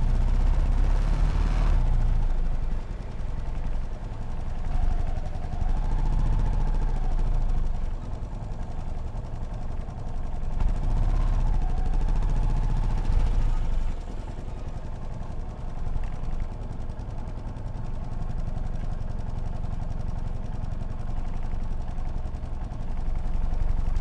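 Yamaha SR500's single-cylinder four-stroke engine running on the road, opening up and easing off several times as the rider works the throttle.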